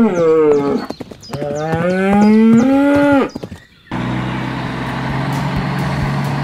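Cow mooing twice: one long moo ends about a second in, then a second, longer moo rises in pitch. About four seconds in, a steady tractor engine rumble starts. Both are dubbed sound effects over the toy scene.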